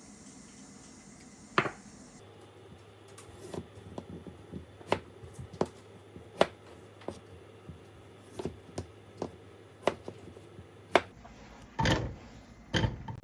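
Kitchen work: irregular light knocks and clicks of utensils and dishes being handled and set down, with two heavier thumps near the end.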